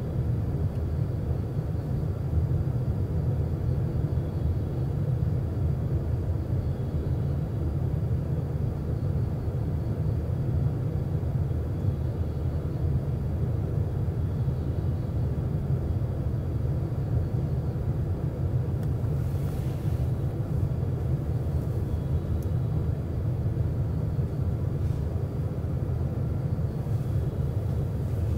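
Running sound of a JR West 321 series electric train heard on board: a steady low rumble of wheels and running gear on the rails, with no rise or fall in pitch.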